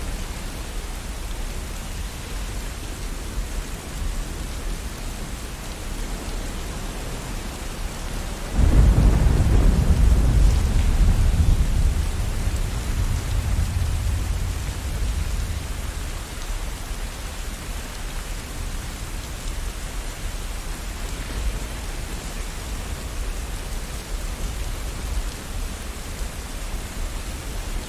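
Steady rain falling, with a rumble of thunder that breaks in suddenly about a third of the way through and slowly rolls away over several seconds.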